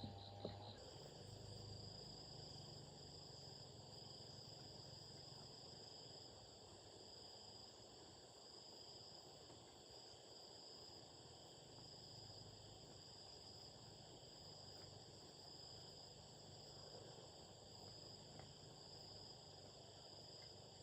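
Faint, steady high-pitched chirring of insects, starting about a second in, over a faint low hum.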